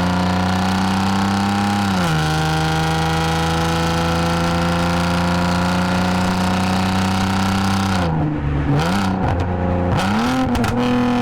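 Lexus IS250's 2.5-litre V6 through a full aftermarket exhaust with valved mufflers, pulling with its note slowly rising; a gear change about two seconds in drops the pitch, and it climbs again. Near the end the revs dip and waver as the throttle comes off, then settle at a higher steady pitch.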